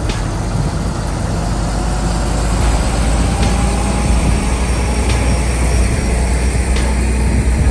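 Heavy vehicle engine running steadily, with a deep low hum and a few faint clicks.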